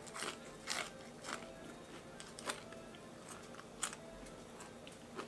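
A person eating close to the microphone: chewing, with scattered short clicks and rustles of food being handled at the plate.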